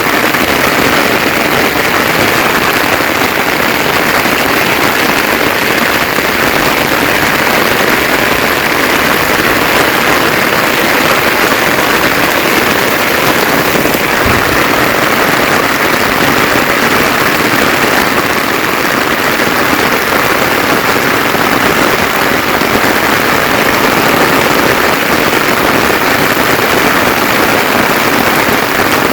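Rain falling steadily, a dense even hiss with no break.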